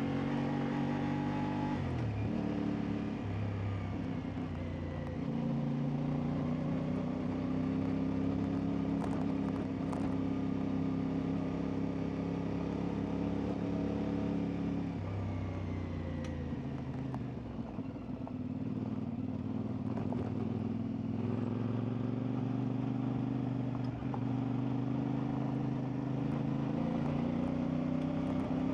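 CFMoto 450MT parallel-twin engine running under way on an off-road ride. The engine note drops about two seconds in, holds steady, eases off again about halfway through, stays low for a few seconds, then builds back up near the end.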